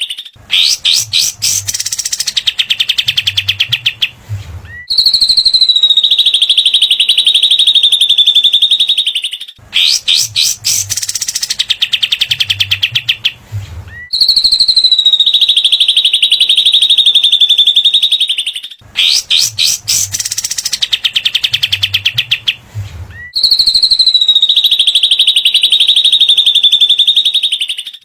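Looped bird-training recording of cililin and katem (kapas tembak) song: a few seconds of rapid, sharp ticking notes, then a long, high wavering trill. The pair repeats about every nine seconds, three times.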